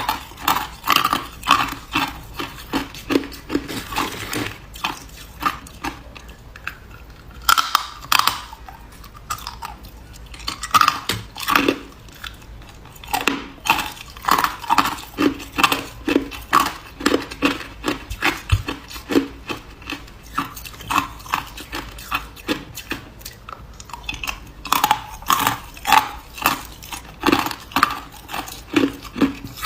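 A person chewing hard ice, each bite a sharp crunch, about two a second, in runs broken by a few short pauses.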